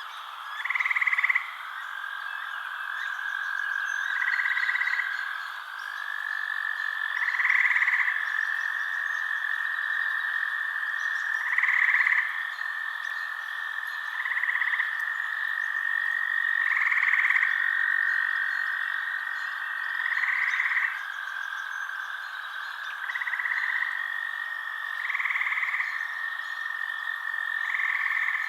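Night chorus of frogs: calls about a second long, repeating every two to three seconds, over a steady high-pitched trill.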